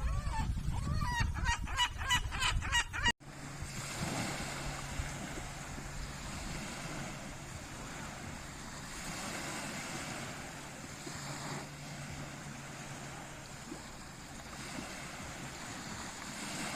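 A gull gives a rapid series of laughing calls over wind buffeting the microphone. It is cut off abruptly about three seconds in, and steady surf and wind noise follow.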